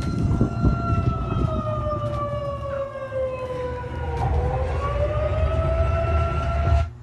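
Alarm siren wailing, the signal for an earthquake drill: one tone that falls slowly in pitch, dips about four seconds in, rises again and then cuts off suddenly near the end.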